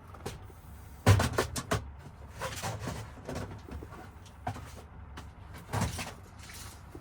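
Clicks, knocks and rattles of small plastic kit cases and metal lock parts being handled, a cluster of them about a second in and scattered ones after.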